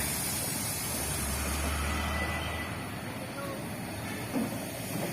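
A heavy vehicle's engine running low and steady amid road noise, its deep hum growing stronger for about a second and a half.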